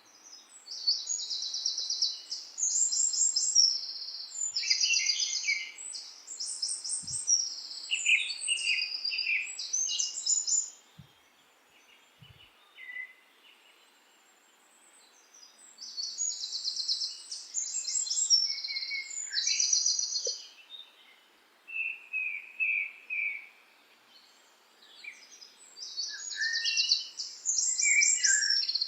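Songbirds singing: quick, high-pitched trilled phrases about a second long, in three bouts with quiet pauses between them.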